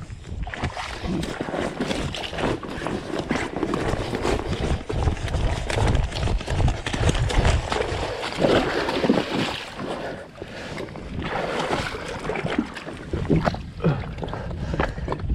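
Water splashing and sloshing around a kayak, with wind rumbling on the microphone.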